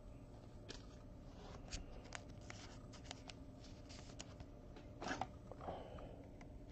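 Faint rustling and small clicks of trading cards being handled, with a slightly louder rustle about five seconds in.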